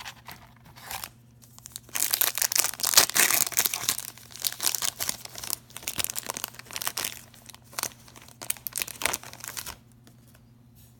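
A trading-card pack wrapper being torn open and crinkled. The crackling comes in fits and starts, starting about two seconds in and stopping about a second before the end.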